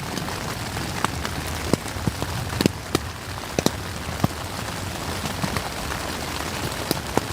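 Rain falling on a tent, heard from inside: a steady hiss with irregular sharp drop hits.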